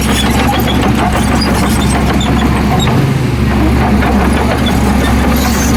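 Heavy diesel engine of earthmoving machinery running steadily at a constant pace, with faint scattered ticks over it.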